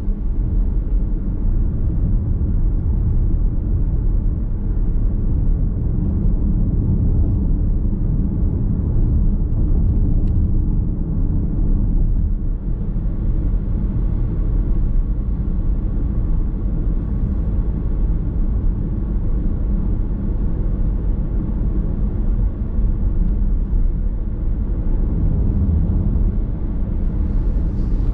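Car driving on a road, heard from inside the cabin: a steady low rumble of tyre and road noise with the engine underneath.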